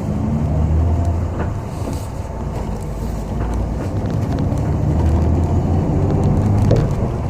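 City bus running on the road, heard from inside the cabin: steady engine drone and road rumble, with the engine pitch shifting slowly.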